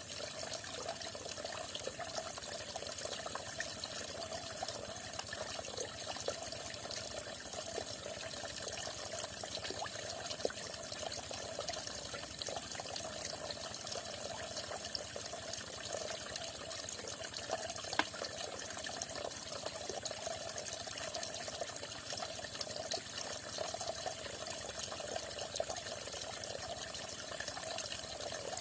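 Falling water running steadily, a constant rush with a few brief splashes in it.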